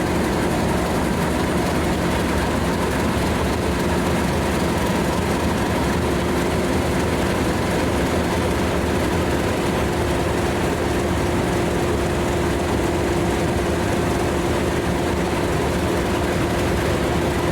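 Diesel locomotive engine running steadily, a constant drone with a few fixed humming tones that holds the same level throughout, typical of a main-line diesel idling.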